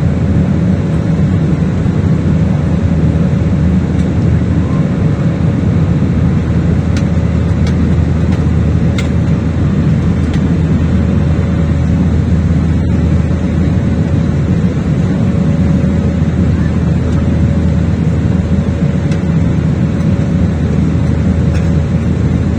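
Airliner cabin noise after take-off: jet engines and rushing air give a steady low noise with a constant hum. A few faint ticks sound through it.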